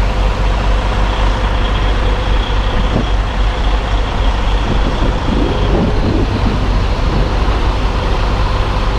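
Semi tractor's diesel engine running steadily, heard from inside the cab as the truck moves slowly: a constant low rumble with a steady hum over it.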